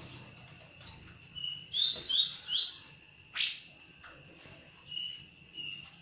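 Grey-cheeked bulbul (cucak jenggot) calling: three quick rising whistled notes about two seconds in, then a single harsh note, and a few shorter notes near the end, over a steady high-pitched tone.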